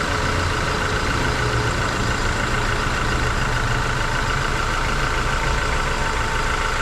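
1994 Honda Accord EX wagon's 2.2-litre four-cylinder engine idling steadily as it warms up from a cold start, with an even, unchanging note.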